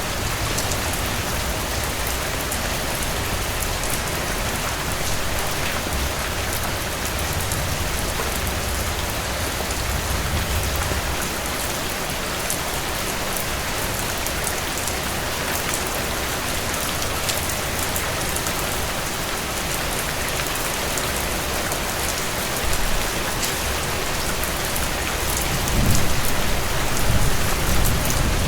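Heavy rain falling steadily on a cabin porch, a dense even hiss with scattered sharp ticks of drops. Near the end a low rumble swells under it.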